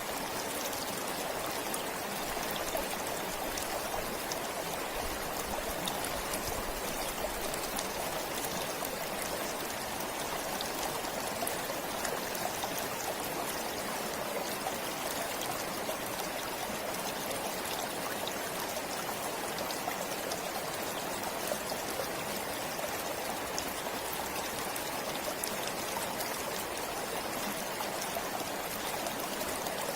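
A stream flowing steadily, an even, unbroken rush of running water.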